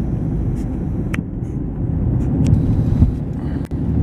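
Wind buffeting the microphone in a blizzard: a steady low rumble with a few short clicks and a brief dropout near the end.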